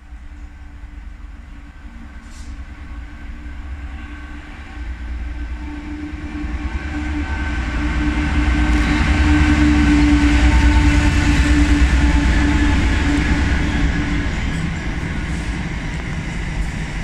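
Two EWS Class 66 diesel-electric freight locomotives, with their two-stroke EMD V12 engines, approaching and passing, the engine drone and low rumble growing louder to a peak about ten seconds in. Then the container flat wagons of the freight train roll past, their wheels rumbling on the rails.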